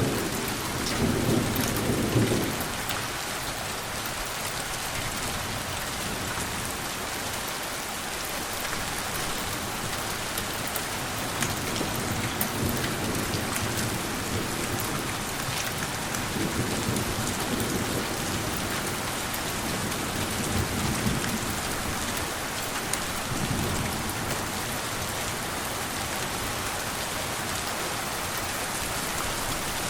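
Steady rain falling, with low rolls of gentle thunder: the loudest about a second in, then fainter ones several times later.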